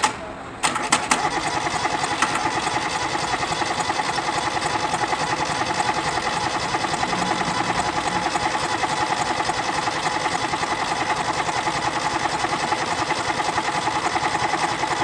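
Starter cranking a Kubota D650 three-cylinder diesel, with an even pulse of about six beats a second that does not speed up as an engine that had fired would, then stopping abruptly near the end. A long crank without catching: the hard starting the engine suffers from.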